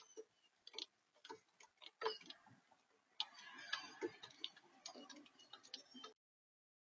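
Faint, irregular taps and clicks on a bird feeder, with a few brief high chirps.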